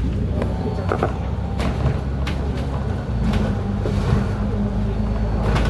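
A road vehicle running, with a steady engine hum and road noise, and occasional short knocks. About halfway through, the hum settles into a steady low tone.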